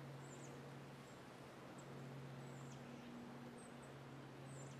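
Near silence in woods, with faint, thin, high chirps from small birds, about half a dozen short calls scattered through, over a low steady hum.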